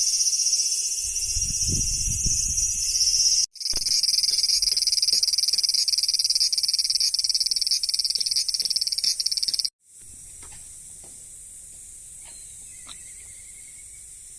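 Shrill, steady buzzing of summer insects in three separate takes cut together, the last one quieter and thinner, with a brief low rumble about a second in.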